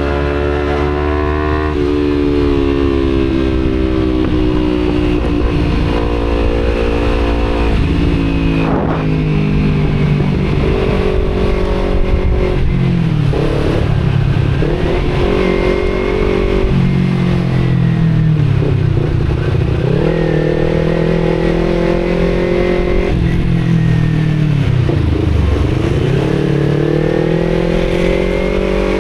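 Kawasaki Z250 parallel-twin through an Akrapovic exhaust, riding in traffic. It holds steady revs for the first several seconds, then drops and climbs again about four times as the bike slows, shifts and accelerates. Wind rumbles on the helmet-camera microphone underneath.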